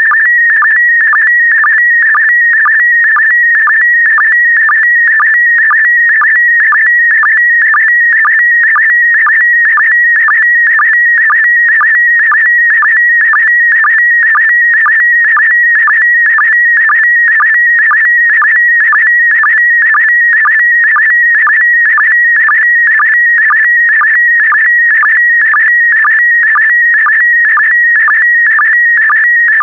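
Slow-scan television (SSTV) image signal in PD120 mode: a loud, continuous high-pitched warbling tone that carries the picture line by line. It is broken by a short, lower-pitched sync pulse about twice a second, each pulse marking the start of a new pair of scan lines.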